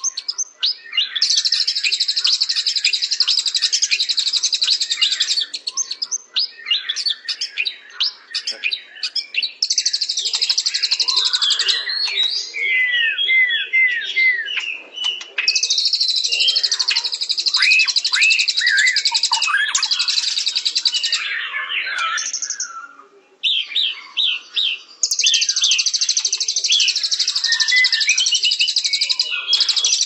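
A songbird singing a busy, varied song: long high, rapid buzzing trills alternate with quick down-slurred whistled notes and chirps, with a short pause near the middle-end.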